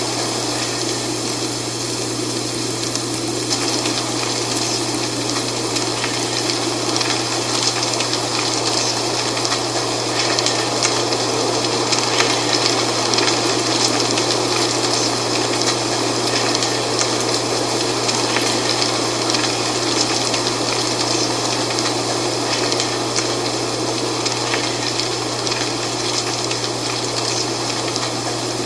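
Wind blowing through dry fall leaves, a steady rustling hiss with fine crackles of leaves moving and a constant low rumble underneath.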